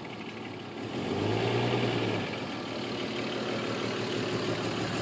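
A motor vehicle engine running steadily, growing louder about a second in, with a low hum that lasts about a second.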